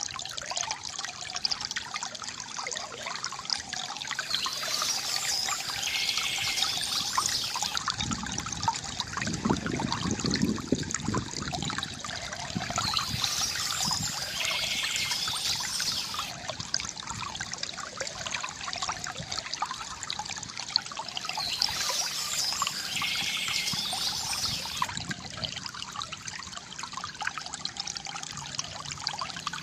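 Small stream trickling and splashing over stones, a steady flow, with a deeper rush of water for a few seconds about a third of the way through.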